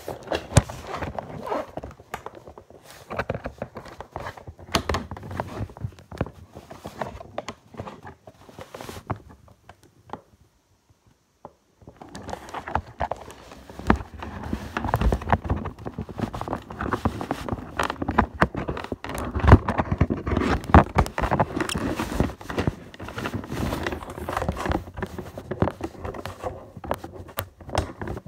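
Handling of a toy's box and packaging: irregular rustling, clicks and knocks, with a short quiet gap about ten seconds in.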